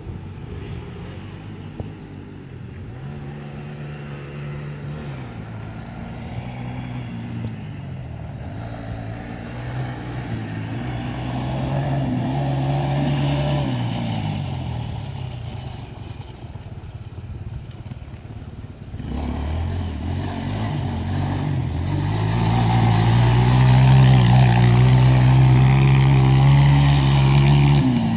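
Motocross motorcycle engines revving on a track, their pitch rising and falling as the bikes accelerate and back off. The engines grow louder in the last third and are loudest near the end.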